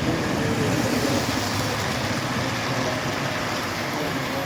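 Model railroad trains running on the club layout: a steady rumble and hiss of locomotive sound and wheels on track.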